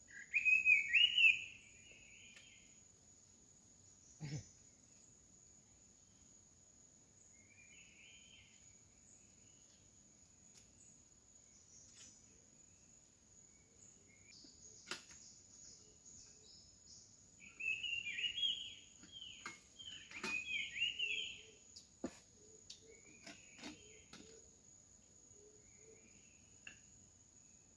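Forest ambience: a bird calling in short chirping bursts, loudest at the start and again about two-thirds of the way through, over a steady high-pitched insect drone.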